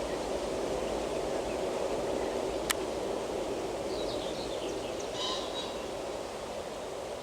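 Steady rushing rumble of a train moving away, slowly fading, with a single sharp click a little before the middle and birds chirping briefly past the middle.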